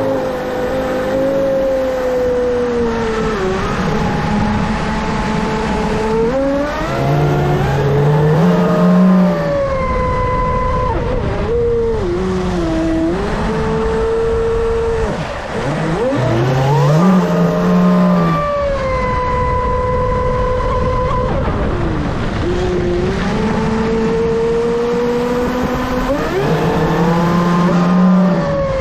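Pro Boat Sonicwake 36 RC boat running on the water, its brushless electric motor whining loud over a steady rush of water. The whine climbs and falls with the throttle, sweeping up and holding several times, about every ten seconds.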